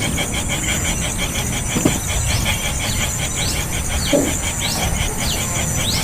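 A young bird begging for food: short, high, rising chirps repeated every half-second or so over a steady background hiss and rumble.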